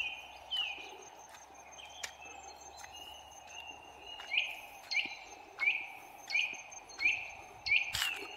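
A bird calling over and over with short, falling chirps, scattered at first and then regular about every two-thirds of a second and louder in the second half, over a steady background hum.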